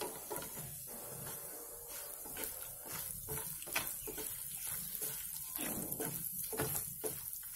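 Garlic cloves, ginger and whole spices sizzling in oil in a frying pan over a low flame, with a wooden spatula scraping and tapping on the pan as it stirs them, at irregular moments throughout.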